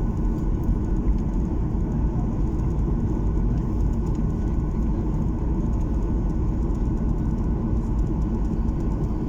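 Steady rumble of a jet airliner's engines and airflow, heard from inside the passenger cabin.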